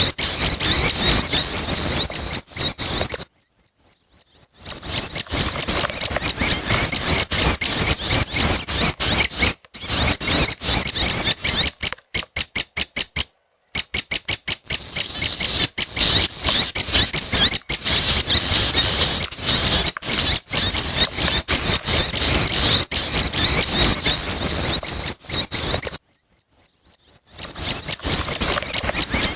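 Prinia (prenjak) chicks calling: a dense, unbroken run of high, thin calls. It stops twice for about a second, once early and once near the end, and breaks into a quick run of evenly spaced pulses about halfway through.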